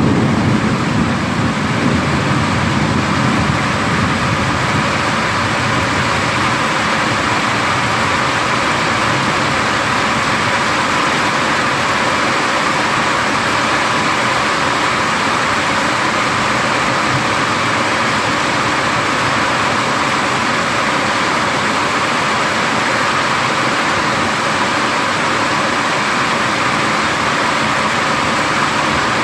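Heavy thunderstorm rain pouring down in a steady hiss, with a low thunder rumble dying away in the first few seconds.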